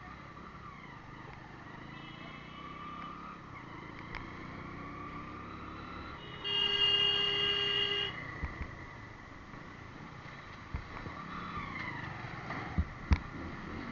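Motorcycle riding through road traffic, engine pitch rising and falling. A vehicle horn honks steadily for about a second and a half midway, with a fainter honk earlier and two sharp knocks near the end.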